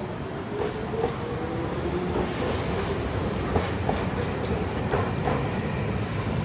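Hiroshima Electric Railway streetcar running on its tracks: a steady rumble with a faint wavering hum and a few sharp clicks in the second half.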